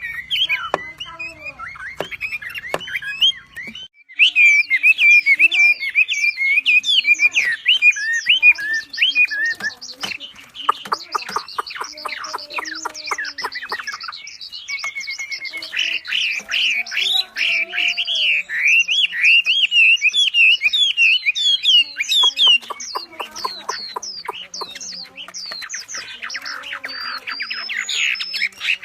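Wambi songbird singing a loud, fast chattering song of squeaky whistles, glides and squawks in quick rapid-fire runs, with a short break about four seconds in.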